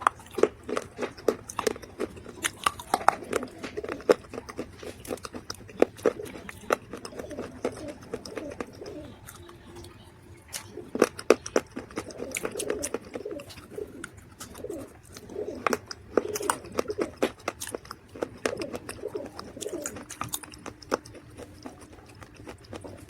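Close-up crunching and chewing of dry baked mud, with sharp crackles at irregular intervals as pieces are bitten and ground. Low wavering coos recur between the bites.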